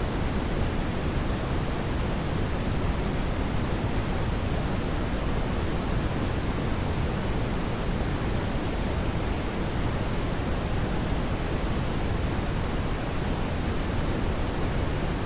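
Steady brown noise: an even, deep hiss, strongest in the bass, with no changes or events.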